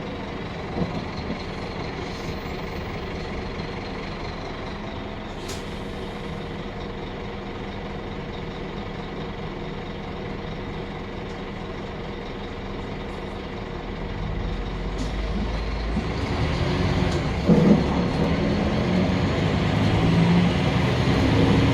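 Scania K310UB city bus running steadily, then pulling away from about fourteen seconds in, its engine growing louder to the end, with a short loud sound a few seconds before the end.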